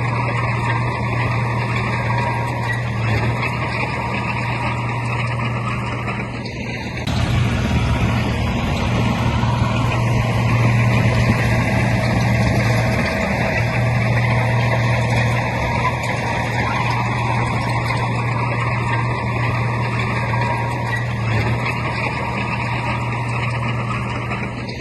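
Heavy diesel earthmoving machinery running steadily, a deep engine drone that gets louder about seven seconds in.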